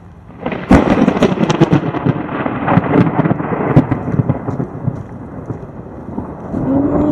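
Close thunder: a sudden loud crack about half a second in, crackling sharply for a few seconds, then rolling on as a rumble that swells again near the end.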